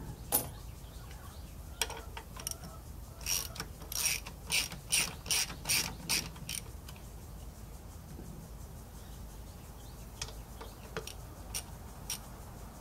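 Ratchet wrench clicking on a bolt: a few scattered clicks, then a quick run of about eight clicks a few seconds in, then a few more single clicks.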